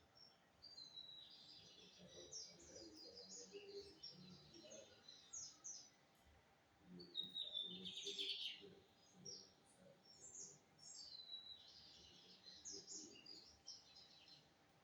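Lined seedeater (bigodinho) singing its fast chirping song in three phrases, the loudest one near the middle, with short pauses between.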